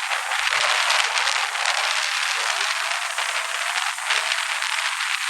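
Storm wind: a steady, dense hiss packed with fast crackling and rattling.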